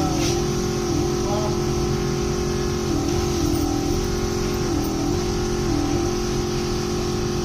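An engine running steadily, its speed sagging briefly several times.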